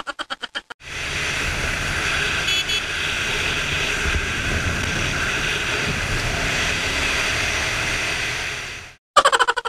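Ducati 750 Sport motorcycle being ridden at a steady pace: wind rushing over the microphone, with a low engine rumble beneath it. A rapid stutter of repeated pulses fades out in the first second and starts again just after nine seconds.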